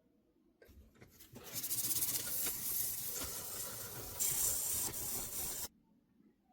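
A steady hiss of spray or escaping air under pressure that builds up about a second in and cuts off suddenly near the end.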